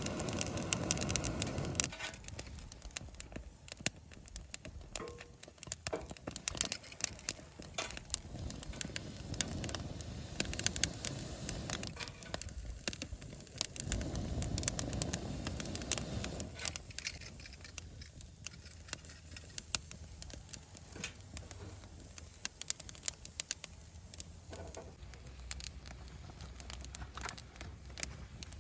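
Wood campfire crackling with scattered sharp pops and clicks. Two short bursts of rustling, handling noise come at the start and about halfway through.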